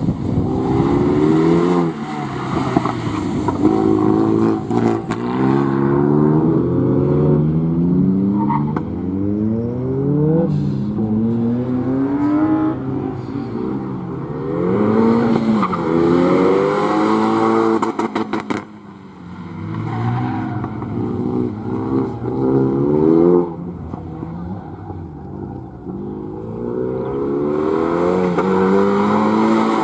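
Renault Mégane RS's turbocharged four-cylinder engine driven hard around a circuit. Its pitch climbs again and again as it accelerates, then drops back at each gear change or lift for a corner.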